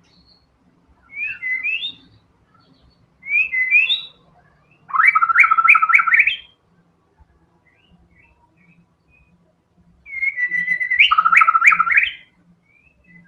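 White-rumped shama (murai batu) singing in loud separate phrases: two short whistled phrases, then two longer ones of rapid repeated notes, the last opening on a held whistle.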